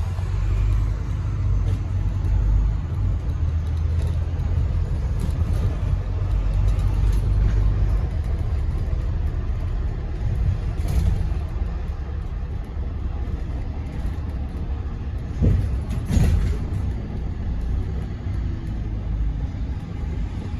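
Inside a Scania N230UD ADL Enviro400 double-decker bus on the move: a steady low rumble from the diesel engine and the road. About three-quarters of the way in come two knocks, under a second apart.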